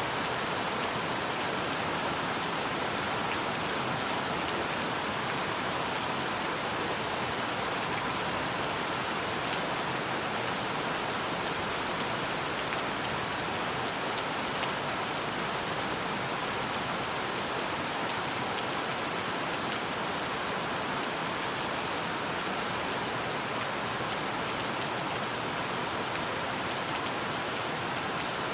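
Steady rainfall: an even, unbroken hiss of rain, with scattered sharp drop ticks.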